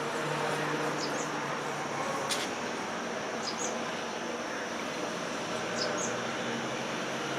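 A small bird gives a short, faint, high two-note chirp three times, about two and a half seconds apart, over a steady hiss of outdoor ambience, with a single sharp click a little after two seconds in.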